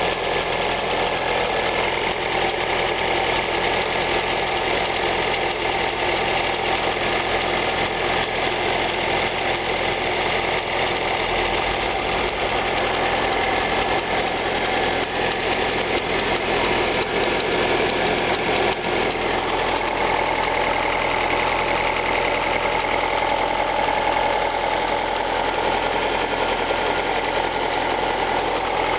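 Alfa Romeo 156 1.8 Twin Spark four-cylinder petrol engine idling steadily just after a cold start, with a ticking noise running through the idle.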